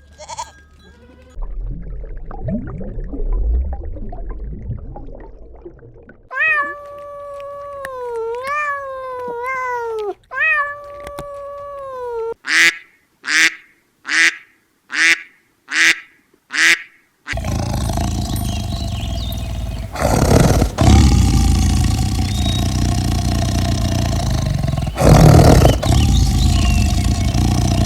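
A cat meowing: several long meows with bending pitch, then a run of six short, loud meows in quick, even succession. After these comes a noisier stretch of sound with two loud thumps.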